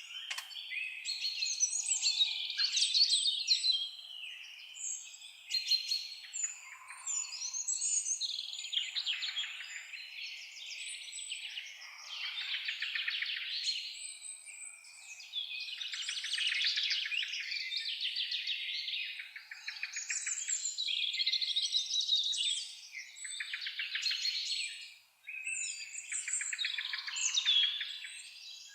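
Several songbirds singing at once, a dense, continuous chorus of fast trills and chirps.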